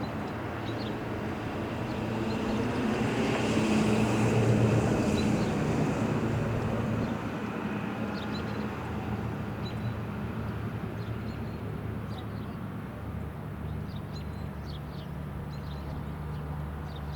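A vehicle passing by: a steady hum that grows louder to a peak about four seconds in, then slowly fades.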